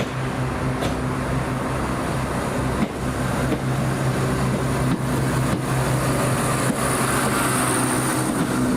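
Scotrail class 170 Turbostar diesel multiple unit departing, its underfloor diesel engines running steadily under power with a low hum that grows slightly louder. There are a few sharp clicks, and a faint high whine rises near the end.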